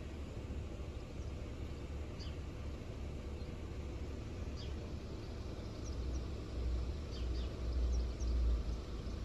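Birds chirping in a few brief, high calls over a steady low rumble, which swells louder in the second half.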